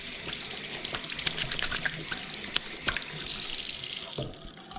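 Water running from a shower faucet, splashing and dripping, shut off about four seconds in. The faucet has just had a new cartridge fitted and is being run to check for leaks.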